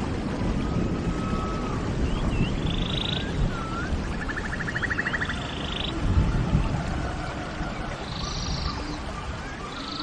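Birdsong repeated several times, each phrase a few short swooping whistled notes followed by a rapid buzzy trill, over a steady low background rumble.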